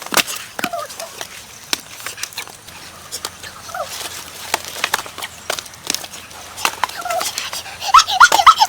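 Domestic fowl calling in short squawks, a few scattered through and a louder flurry near the end, over scattered sharp clicks and knocks.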